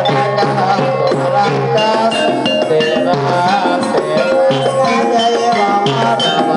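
Gamelan music for an ebeg hobby-horse dance: struck metal instruments playing steady, interlocking melodic notes over regular percussion strokes.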